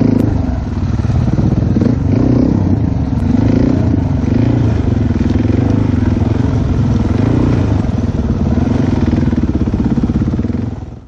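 Dirt bike engine running under way, its pitch rising and falling a little with the throttle. It cuts off suddenly at the end.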